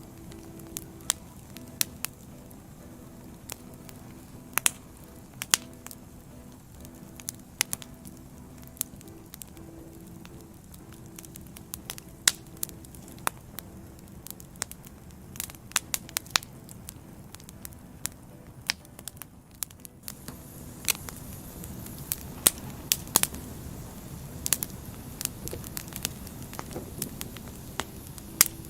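Wood fire burning, logs crackling with irregular sharp pops over a low steady rush of flames. A faint low hum runs underneath, and the rush grows slightly louder about two-thirds of the way through.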